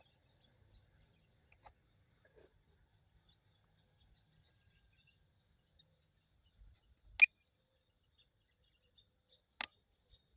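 Two sharp clicks about two and a half seconds apart, the first much louder, over a faint background with a thin high whine.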